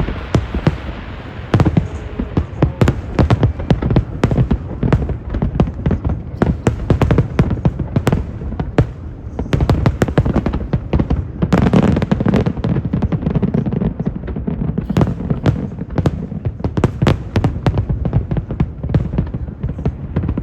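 Aerial fireworks going off in rapid succession: a dense, unbroken run of bangs and crackles, thickest around the middle.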